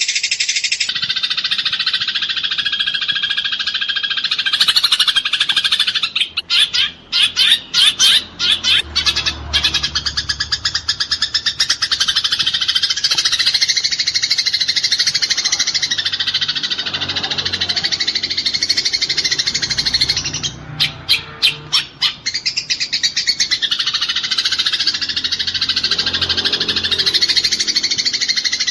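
Eurasian tree sparrows chattering in a fight: a dense, unbroken run of rapid high chirps. It breaks into separate loud chirps about six seconds in and again around twenty seconds in.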